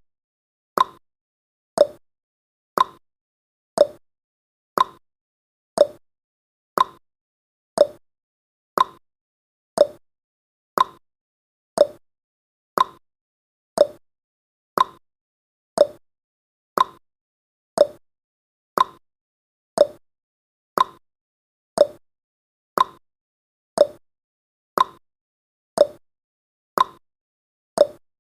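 Clock-tick sound effect of a countdown timer: short, sharp ticks, one a second, alternating between a lower and a higher tick like a tick-tock.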